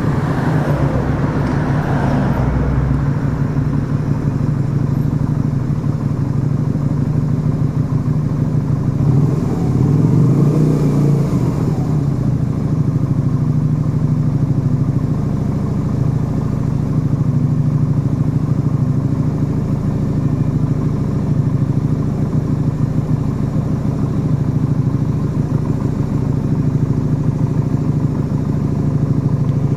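The small V-twin engine of a Yamaha XV125 Virago running steadily at road speed through an aftermarket Turbo Kit exhaust. The note swells and rises briefly about ten seconds in.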